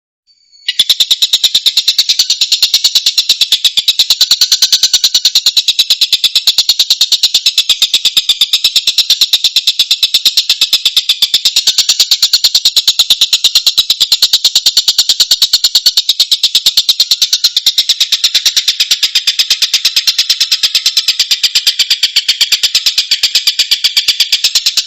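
Tengkek buto kingfisher call recording: a loud, fast, continuous high rattling trill that starts abruptly under a second in and keeps on without a break.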